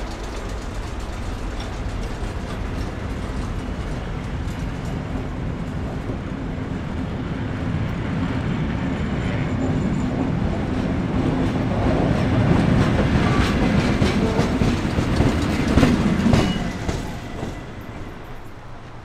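Tait wooden-bodied electric suburban train rolling slowly past, its wheels clicking over rail joints. The running noise and clicking grow louder and busier until about three seconds before the end, then drop away.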